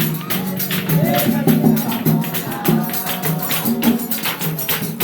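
Samba de roda chula music: a pandeiro keeping a quick, steady beat under voices singing.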